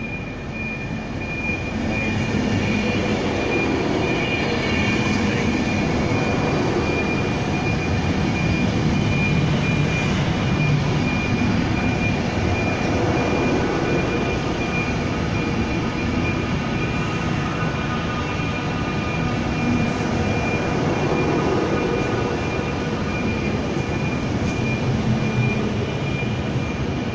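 Virgin Trains Class 390 Pendolino electric train running along the platform close by. It grows louder about two seconds in as the front arrives, then holds a steady rumble of wheels on rail with a thin high whine over it as the coaches go past.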